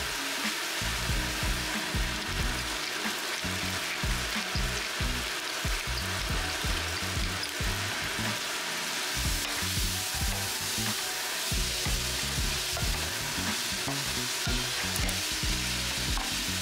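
Spaghetti squash strands sizzling in olive oil with garlic in a nonstick skillet, with a steady frying hiss as a wooden spatula stirs them through.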